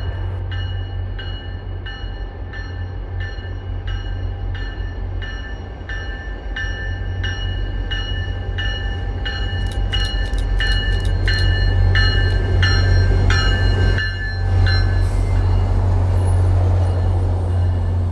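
MBTA diesel locomotive approaching and passing with its bell ringing, a little under two strokes a second, over the low, steady rumble of its engine. The bell stops about three-quarters of the way through, as the locomotive goes by and the coaches roll past.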